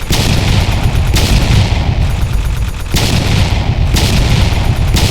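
Fireworks crackling and popping densely over a low rumble, with a sharp bang about once a second.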